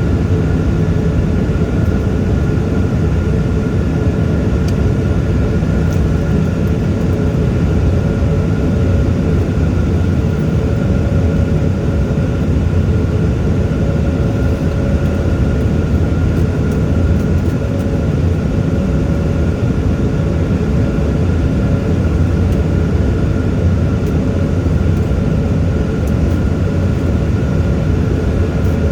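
Steady jet engine and airflow noise heard inside an airliner cabin, deep and unchanging, with faint steady whining tones above it.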